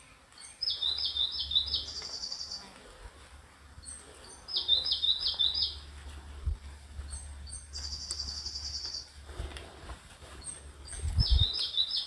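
A songbird singing: a short phrase of four quick high notes, given three times, and twice followed by a fast, higher trill. A low rumble runs underneath, with a few soft thumps near the end.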